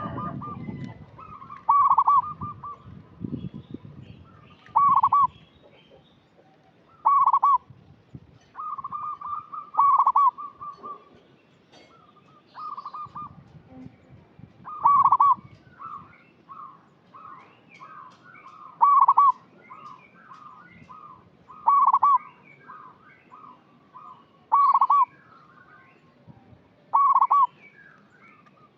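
Zebra dove (perkutut) cooing: loud, clipped coo notes repeat every two to three seconds, with a quick run of softer staccato coos about halfway through. Fainter chirps of other birds sit behind it.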